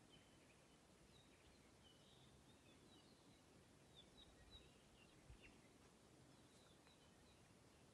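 Near silence with faint, scattered short bird chirps and one faint low thump a little past the middle.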